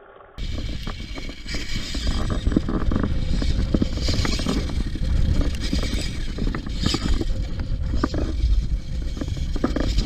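Tamiya Lunchbox RC monster truck driving over rough ground: a continuous low rumble with many sharp thumps and bumps from the chassis and tyres, starting abruptly about half a second in.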